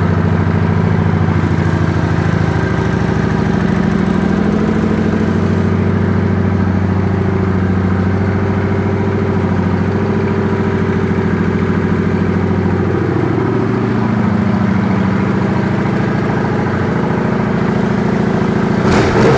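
2009 Kawasaki Vulcan 900 Classic's V-twin engine idling steadily through its exhaust pipes. The exhaust has a low growl, which the seller takes for aftermarket pipes or stock pipes with the baffles removed.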